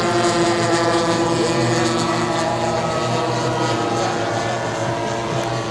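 Propeller-driven giant-scale radio-control model airplane running at a steady pitch, easing off slightly near the end.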